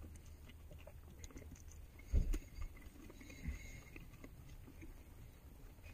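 Quiet chewing of food, with scattered small clicks and a dull low thump about two seconds in, over a low steady hum.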